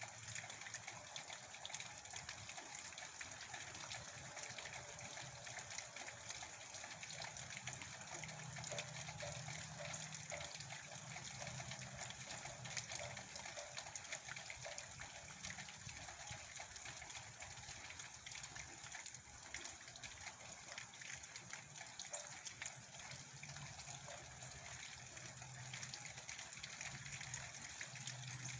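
Steady rain with a dense patter of fine drops, a rushing, trickling wash. A low hum comes and goes in the background.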